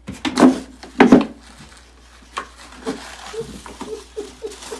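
A dog falling against wood: two heavy thumps about half a second apart near the start, then lighter knocks and a run of short squeaks.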